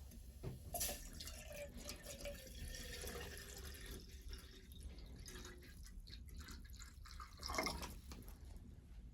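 Water dripping and trickling, with scattered small clicks and a louder sound about three-quarters of the way through.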